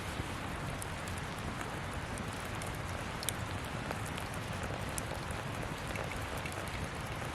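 Campfire burning: a steady hiss with scattered small, sharp crackles.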